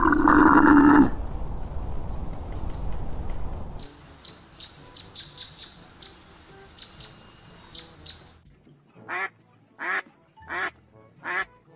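A camel calling loudly at the start, its call trailing into a noisy grumble, then a stretch of faint high ticks and chirps. From about nine seconds in, a duck quacks over and over, about once or twice a second.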